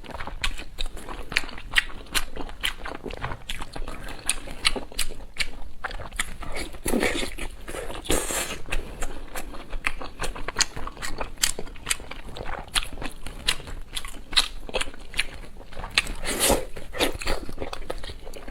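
A person eating close to the microphone: rapid, continuous crunching and chewing clicks, with a few longer, louder crunches about seven seconds in and again near the end.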